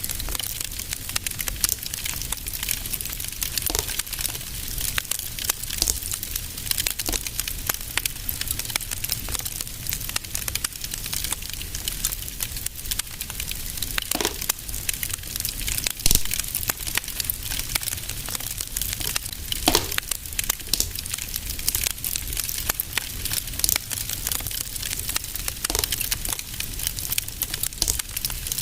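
Fireplace fire crackling steadily with a dense stream of small snaps over a low rumble. A few louder pops stand out around the middle and about two-thirds of the way through.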